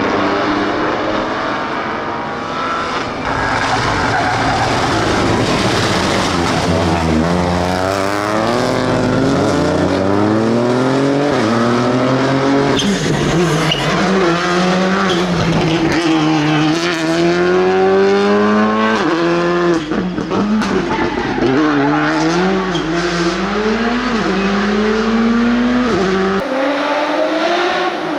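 Rally car engine at hard throttle, its pitch climbing and dropping again and again as it shifts gear and lifts for corners, with tyre noise and a few sharp cracks.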